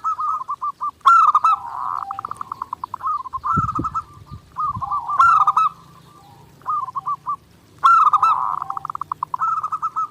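Zebra dove (perkutut) cooing in repeated phrases every second or two. Some phrases end in a rapid run of pulsed notes. A few low thumps come a little after three seconds in.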